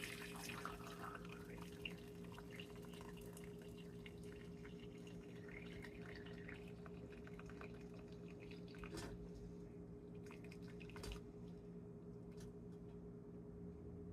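Liquid dripping and trickling from boiled ginger slices draining in a strainer, livelier in the first two seconds, with a couple of light taps around nine and eleven seconds, over a steady low hum.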